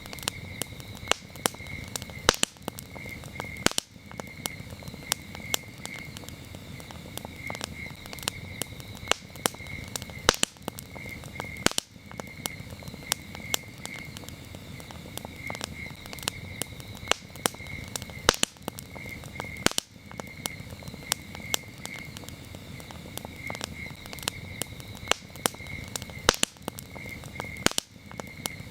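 Campfire crackling, with frequent sharp pops and snaps over the low rush of the burning wood. Crickets chirp steadily in a regular repeating pulse behind it.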